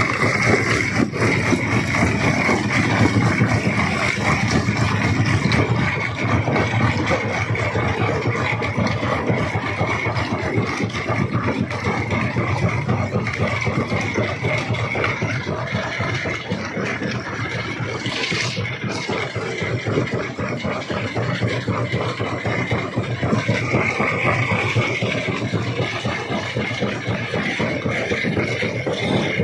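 Jaw rock crusher running, a steady machine drone with continuous rattling and grinding of stone being crushed. A short, sharper noise stands out about two-thirds of the way through.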